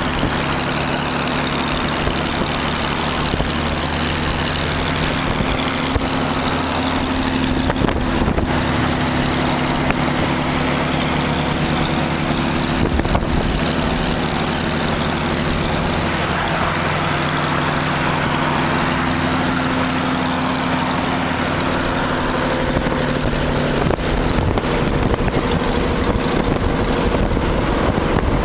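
V-12-engined rat rod running at cruising speed, its engine holding a steady, deep note, with road noise from driving alongside it.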